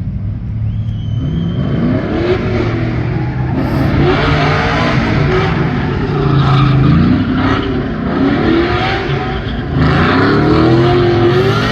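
A truck engine revving hard, its pitch climbing and falling again and again, over a steady rushing noise, loudest near the end.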